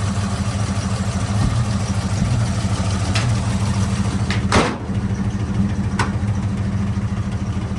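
1953 Chevy pickup's original inline-six engine idling steadily, warm after its cold start. About four and a half seconds in there is one sharp knock, with lighter clicks a little before and after it.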